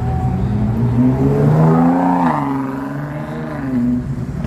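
A car engine revving: its pitch climbs over the first two seconds, drops back, then runs steadier at a lower speed.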